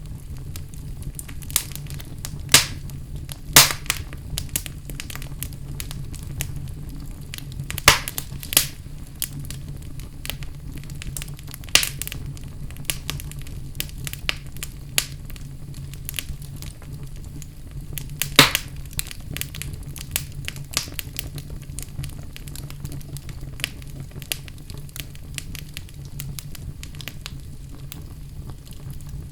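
Wood fire burning in a fireplace: a steady low rumble of the flames with frequent crackles and sharp pops of the logs, a few of them much louder than the rest.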